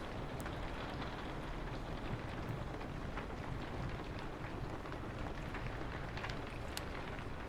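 Steady rain falling on a window, with a low rumble of wind beneath it. A wood fire crackles over it with scattered sharp pops.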